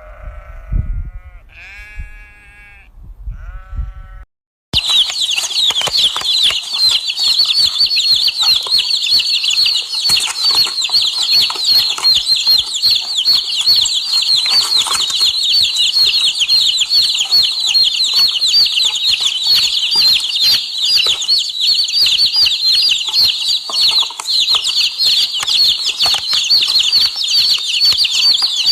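Sheep bleating a few times, then a sudden cut to a dense, continuous chorus of high chirping from a large flock of birds, with constant fine clicking and rustling beneath it.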